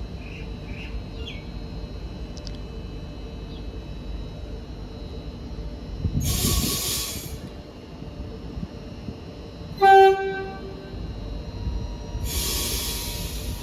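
Suburban electric train at a station platform: a steady low rumble with two bursts of hissing air, about six seconds in and near the end. About ten seconds in comes one short, loud horn blast.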